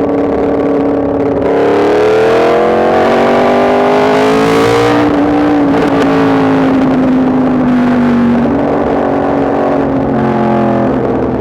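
Yamaha MT-10 SP's crossplane inline-four engine under way, pulling with its note rising steadily for about three seconds, then levelling off and slowly dropping as the throttle eases, falling further near the end. A rush of wind noise accompanies the hard pull.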